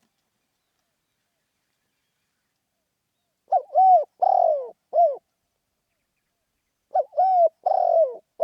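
Spotted dove cooing: two phrases of four coos each, the first beginning about three and a half seconds in and the second about three seconds later, in the rousing call style that Thai keepers call khan yon.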